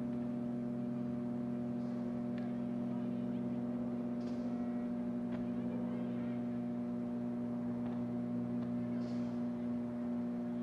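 Steady low hum made of several fixed pitches, with a few faint knocks now and then.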